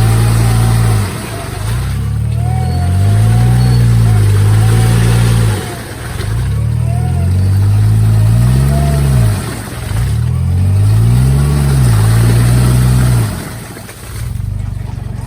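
Off-road vehicle engine revving hard, rising and falling back four times in a row.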